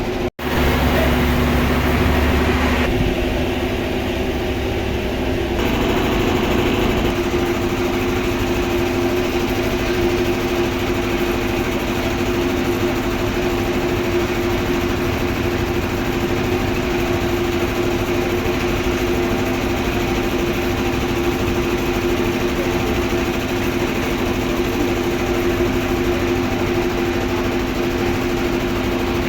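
Sawmill machinery running steadily, a constant motor hum with a noisy mechanical bed. The sound cuts out for an instant just after the start.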